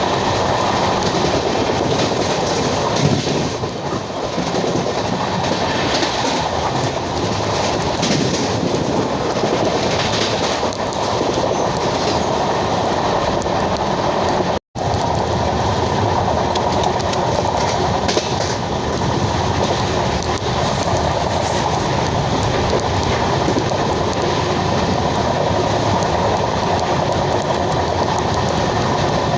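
Passenger train running at speed: the steady rumble and wheel clatter of LHB coaches on the rails. The sound cuts out for an instant about halfway through.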